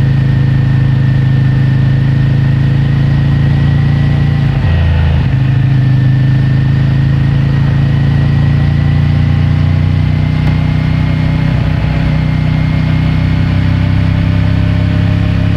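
CFMOTO 450MT parallel-twin engine on its stock exhaust, running at a fairly steady engine speed on the move. The engine note briefly drops and changes about five seconds in and again near twelve seconds.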